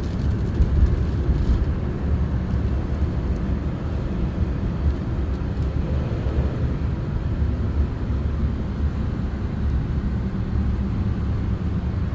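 Steady low rumble of a car driving, heard from inside the cabin, with the hiss of tyres on a wet road.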